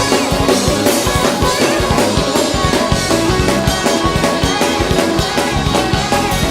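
Fast, driving gospel praise-break music played by a live band: drum kit with rapid, steady strokes, bass and guitar, no singing.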